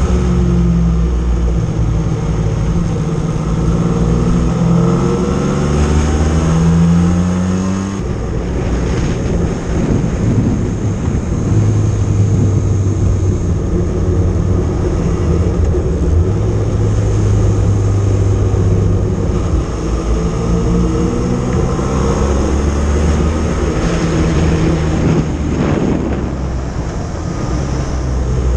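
Motorcycle engine heard from the moving bike, its revs climbing and dropping with the gear changes, then holding steady while cruising, with a steady rush of wind and road noise. The sound changes abruptly about eight seconds in.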